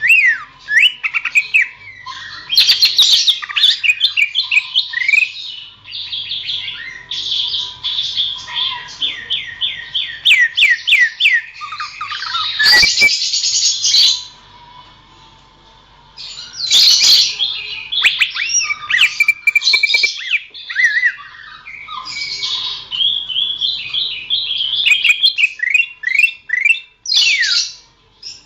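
Cucak ijo (green leafbird) singing: loud, rapid runs of whistled notes and quick sweeping glides mixed with harsh chattering. There is a pause of about two seconds about halfway through.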